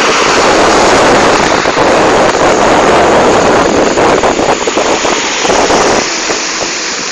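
Ocean waves surging and washing, a loud continuous rush, with wind buffeting the microphone. It eases a little about six seconds in.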